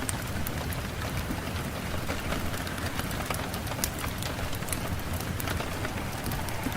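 Steady rain, with many separate drops ticking sharply at irregular moments over an even hiss.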